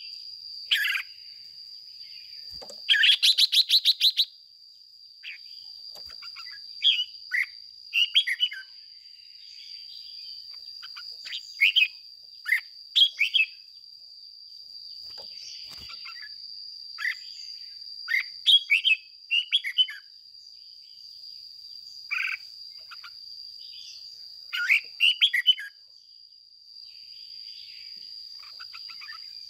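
Red-whiskered bulbul singing short, separate phrases of a few notes every second or two, with a fast rattling run of notes about three seconds in. A steady thin high tone sounds underneath throughout.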